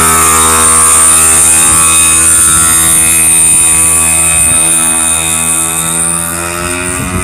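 Motorcycle engine running loud and close at a steady speed, its pitch and loudness easing off slightly over the last couple of seconds.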